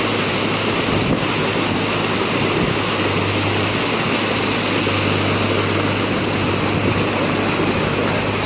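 Steady rush of a flood-swollen river, with a low hum running underneath.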